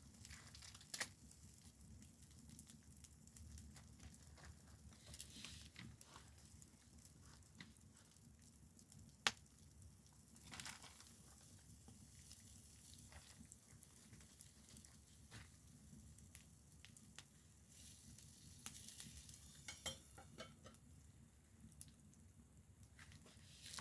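Faint crackling of a wood fire: scattered small ticks and hissing, with one sharp pop about nine seconds in.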